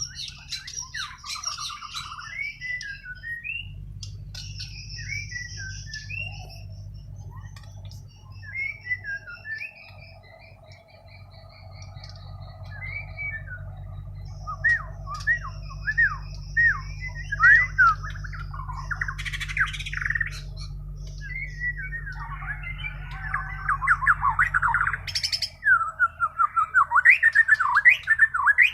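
Bornean shama (murai Borneo) singing its natural, untutored song: varied whistled phrases and fast chattering trills, growing louder and denser near the end. A steady low hum runs underneath for most of the song.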